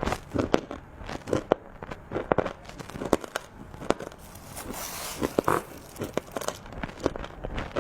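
Close-up crunching and chewing of hard, crunchy chocolate treats: a run of sharp crackly bites and crumbly crunches, with a softer, steadier crinkling rustle around the middle.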